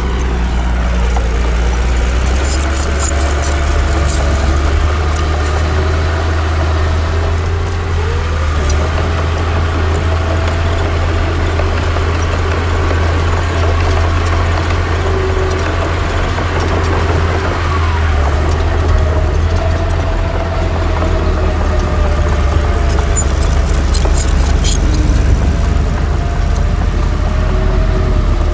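Heavy diesel engine of earthmoving machinery running steadily under load, its pitch rising and falling as the load changes. Short metallic clanks come about two seconds in and again near the end.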